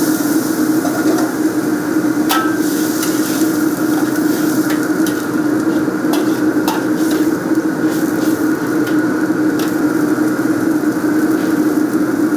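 Steady roar of running kitchen equipment, with about a dozen light clicks and knocks of a utensil against cookware scattered through it.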